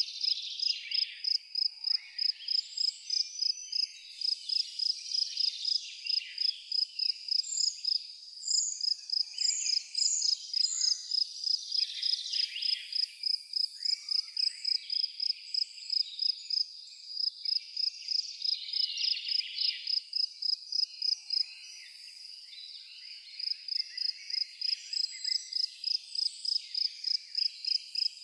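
A cricket chirping in an even, high-pitched rhythm of about three chirps a second, pausing briefly about 22 seconds in, over scattered bird calls and twitters, with a quick run of four high notes about nine seconds in.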